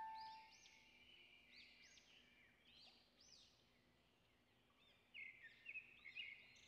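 Faint birdsong: a series of short, high, arched chirps repeated throughout, a little louder near the end. The last piano note of the background music fades out at the start.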